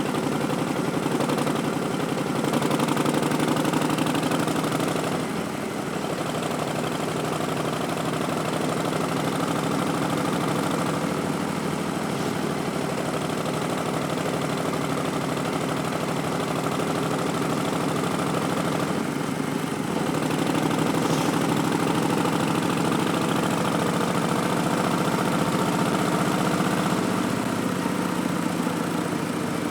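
2019 Harley-Davidson Street Bob's Milwaukee-Eight V-twin running under way, Stage 1 tuned with Vance & Hines Twin Slash slip-on mufflers and an Arlen Ness Big Sucker air cleaner. The engine note swells for a few seconds near the start and again for several seconds past the middle, then eases back.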